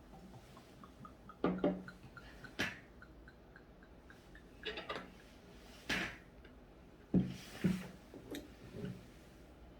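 A drink glugging as it is poured from a bottle into a glass, its pitch climbing as the glass fills, amid several sharp clinks and knocks of dishes and cutlery on a table.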